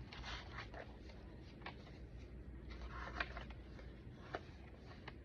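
Paper rustling and crinkling as the pages and pockets of a chunky handmade junk journal are handled and turned, with a few light clicks and taps, the sharpest about three seconds in.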